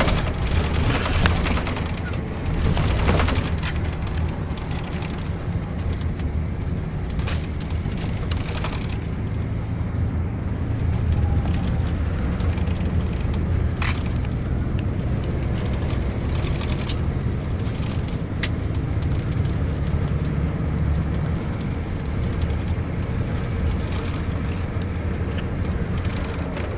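Scania K410ib double-decker bus on the move: a steady low engine and road drone, with a few sharp knocks and rattles.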